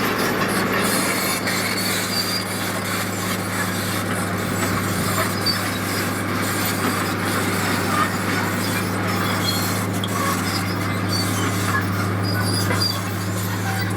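Heavy diesel construction machinery running steadily: a constant low engine drone with a dense, rattly mechanical noise over it.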